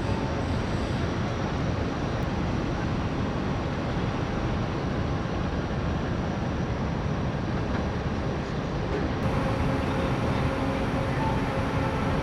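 Steady rumbling noise of the car ferry Ishikari under way, with a faint steady hum running through it.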